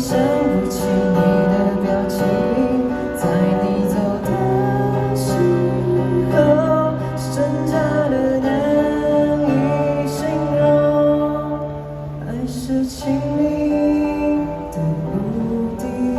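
A slow, gentle song: a woman singing over guitar accompaniment with held, sustained notes.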